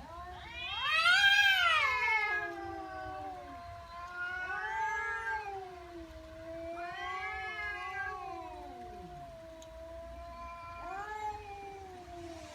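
Angry domestic cat giving a threat yowl: a long, drawn-out, wavering wail that swells and sinks in pitch several times, loudest about a second in.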